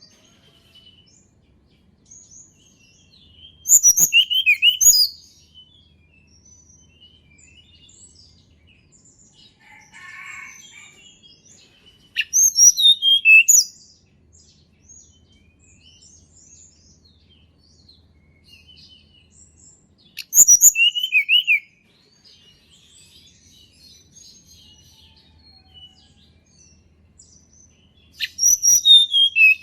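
Tledekan gunung calling: four short, loud bursts of rapid high chirps spaced about eight seconds apart, with faint scattered chirps in between.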